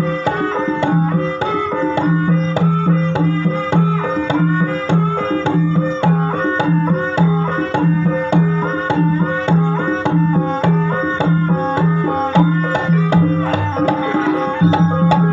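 Javanese gamelan music for an ebeg dance: kendang hand drums keep a steady rhythm under a repeating melody of pitched struck notes.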